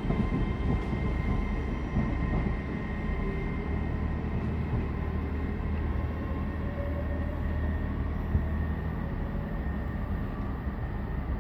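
A train running at a station platform: a steady low rumble with a faint high whine over it.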